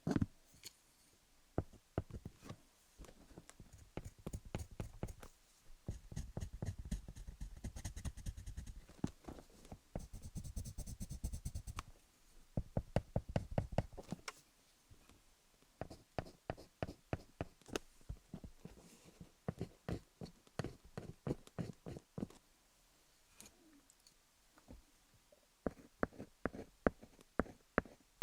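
Colored pencil scribbling and tapping over wooden picks on an ASMR dummy-head microphone: a close, dense run of quick clicks and taps, with longer scratchy scribbling stretches in the first half.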